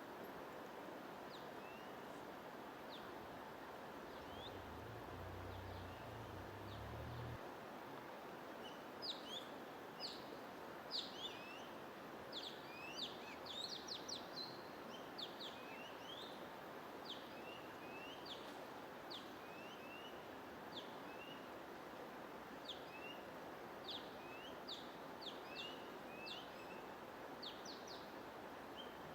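Small birds chirping over a steady white-noise hiss. The chirps are short, quick downward notes, scattered at first and coming thick and fast from about nine seconds in.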